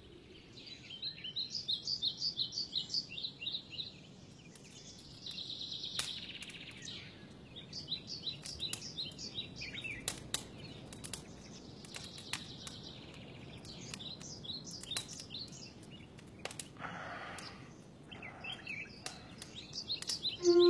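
Forest ambience: small birds chirping in quick repeated trills, in several bouts, with a few sharp clicks here and there.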